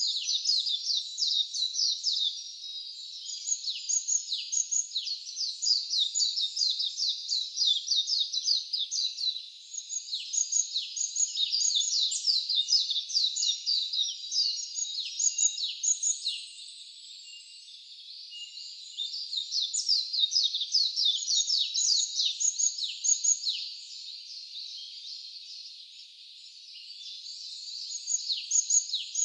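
Songbirds singing in long bouts of rapid, high, downslurred notes, with short lulls between bouts.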